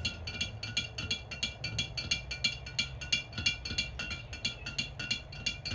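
A metal spoon stirring in a container, clinking against its side in a quick, even rhythm of about five or six light clinks a second.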